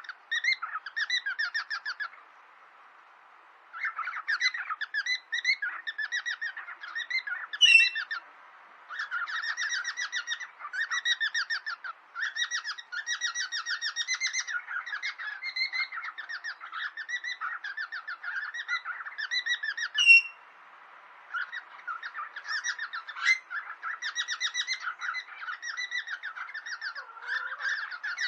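Cockatiels chattering in fast runs of short repeated notes, in bursts of a second or two with short pauses between, broken by two sharp, loud calls, one about 8 seconds in and a louder one near 20 seconds.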